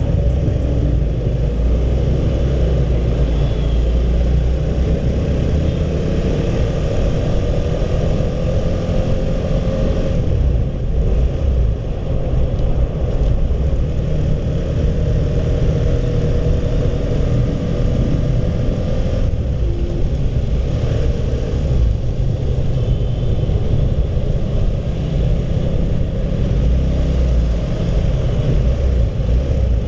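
Honda CB150R motorcycle engine running on the move under heavy wind rumble on the microphone. The engine note climbs slowly twice as the bike picks up speed.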